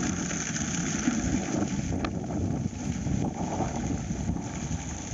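Wind buffeting the microphone outdoors during a hailstorm: a steady low rumble, with one sharp click about two seconds in.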